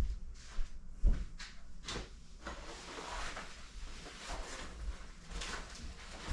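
Rustling and handling of clothing, with a couple of sharp knocks at the start and about a second in, followed by uneven rustling.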